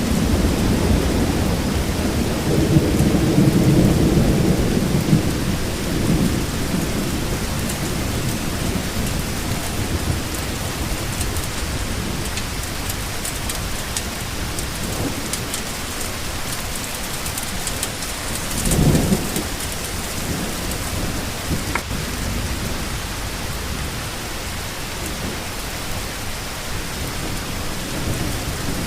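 Steady rain falling, with thunder rumbling low in the first several seconds and fading, then a second short roll of thunder a little past the middle.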